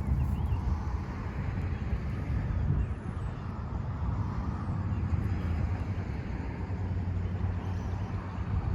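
Road traffic passing, a steady rumble with tyre noise that swells and fades slowly.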